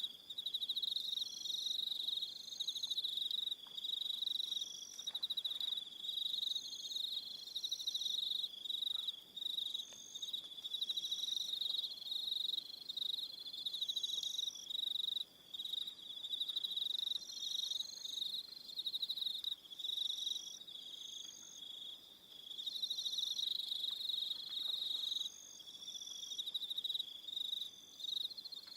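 Crickets chirping: a continuous high, rapidly pulsing trill, with shorter, higher chirps from other crickets coming and going over it.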